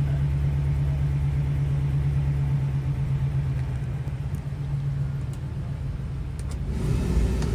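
Ford E350's 5.4-litre V8 gasoline engine idling steadily, heard from inside the cab. Near the end a few clicks are followed by the heater/AC blower coming on with a rushing hum.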